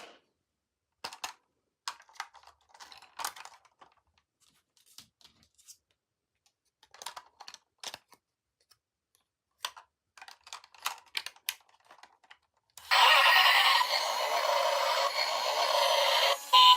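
Scattered small clicks and rattles of toys and plastic packaging being handled. About thirteen seconds in, loud electronic music starts suddenly, with short beeps repeating near the end.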